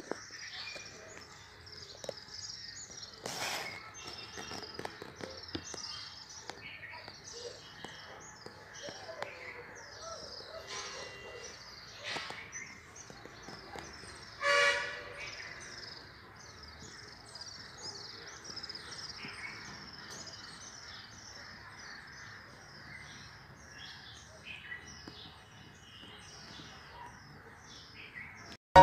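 Small birds chirping and twittering, many short high calls throughout, with a few faint clicks. About halfway through comes one short steady-pitched tone, the loudest sound.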